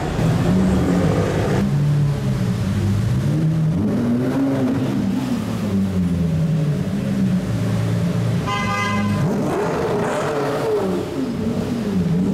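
Supercar engine revving, its pitch rising and falling several times, with a sharp climb a little past two thirds of the way through. A car horn sounds briefly about eight and a half seconds in.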